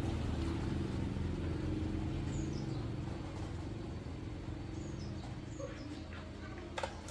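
An engine running steadily at idle, slowly growing quieter, with a few birds chirping and a sharp click near the end.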